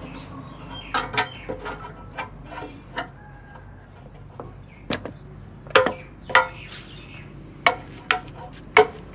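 Hammer blows: a few light taps at first, then heavier strikes from about five seconds in, coming about two a second near the end.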